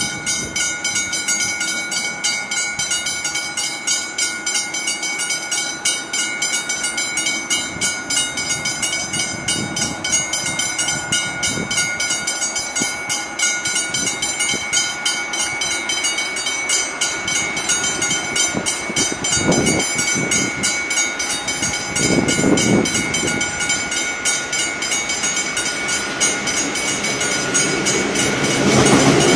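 Level crossing bells ringing steadily as a V/Line N class diesel locomotive approaches hauling passenger carriages. The locomotive's horn sounds twice about two-thirds of the way in, and the train's running grows louder near the end as it reaches the crossing.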